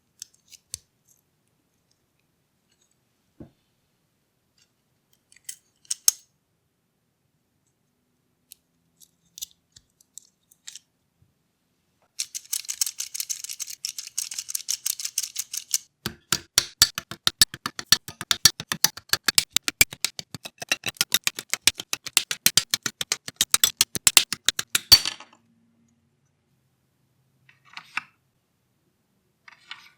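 Scattered light clicks of small plastic parts from a scale engine model kit being handled. About twelve seconds in, a fast, even run of clicking begins, turns heavier a few seconds later and stops abruptly.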